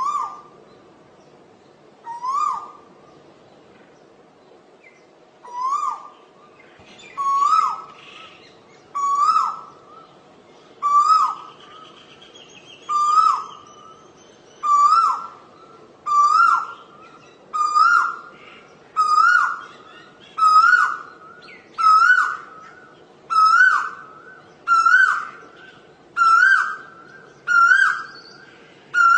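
Asian koel calling: a long series of loud repeated 'ko-el' calls, about eighteen in all. The calls come closer together and climb in pitch and loudness as the series goes on.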